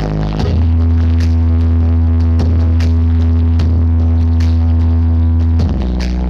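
Large sound system playing electronic dance music at high volume during a sound check. A deep bass note starts about half a second in and is held until near the end, under sharp drum hits.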